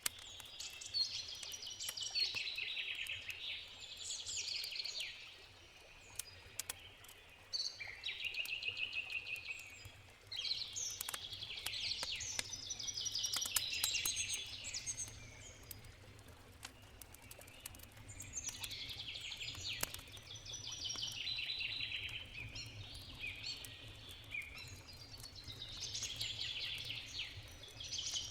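Songbirds singing repeated quick trilled phrases, each a few seconds long with short gaps between, over the sharp crackles and pops of a campfire and a low steady river rumble.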